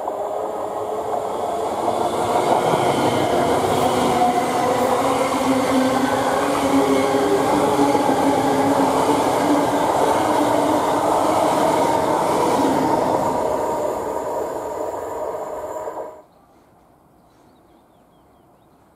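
Two coupled ScotRail Class 385 electric multiple units pass close by, their wheels running on the rails under a steady hum. The sound builds over the first couple of seconds and stays loud, then cuts off suddenly about sixteen seconds in, leaving only faint background.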